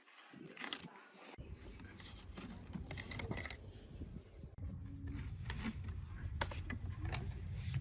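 Light metallic clicks and taps from hand tools and small metal parts being handled, over a low steady hum that gets louder about halfway through.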